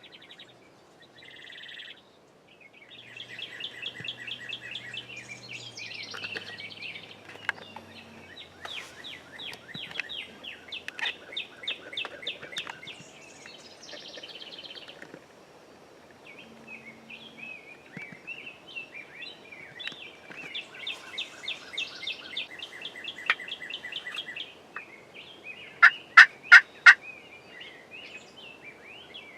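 Wild turkeys calling in repeated quick runs of short notes. A tom turkey gobbles loudly near the end.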